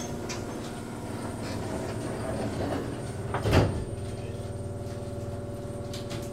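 Shizuoka Railway 1000 series electric train heard from the cab: a steady electrical hum, with a loud thud about three and a half seconds in.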